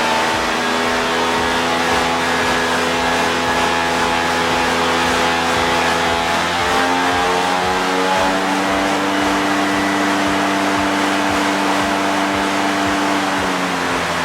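DJI Mavic 2 Pro drone hovering with its propellers humming, the hum changing pitch as the motors work against a strong artificial wind, over a steady rush of blown air. The pitch steps up about halfway through and drops near the end.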